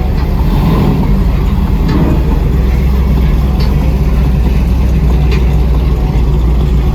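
Steady, loud, low rumble of a car engine and exhaust.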